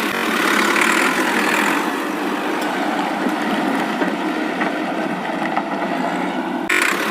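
Steady engine-like running noise of a toy John Deere tractor on the move, thin with no deep low end. The noise changes abruptly just before the end.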